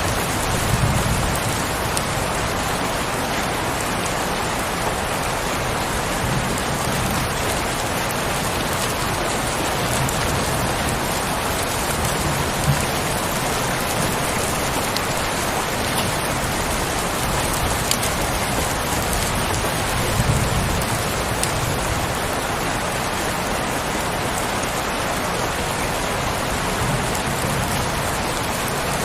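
Heavy rain falling steadily, a dense even hiss with the odd sharper tap of a single drop and a few brief low swells.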